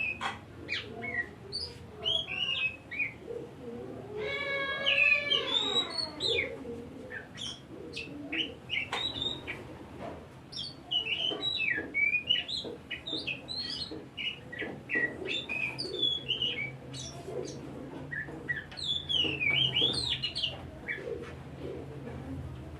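Oriental magpie-robin singing a fast, varied song of short whistles and chirps, with a longer, harsher note about four to six seconds in.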